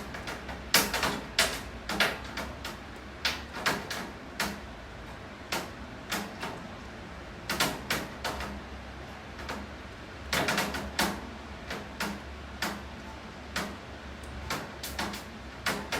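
Rainwater drops hitting a hard surface close by in irregular, sharp taps, sometimes several in quick succession, over a steady low hum.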